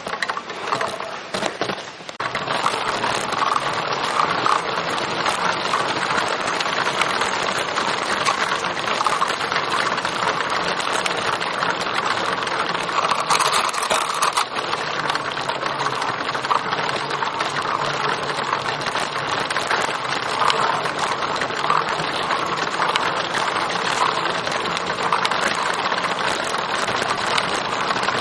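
Trike tyres rolling over a wet, flooded trail surface, making a steady crackling hiss of water and grit that sets in about two seconds in.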